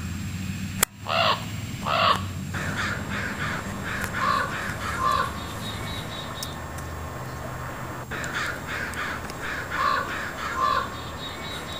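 Crows cawing: a sharp click, then two loud caws about a second in, a run of quicker caws after them, and another run of caws later on. A steady low hum runs underneath.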